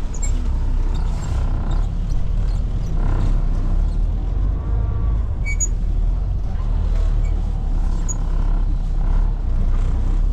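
Diesel engine of a Class A semi truck running with a steady low rumble as the truck reverses slowly.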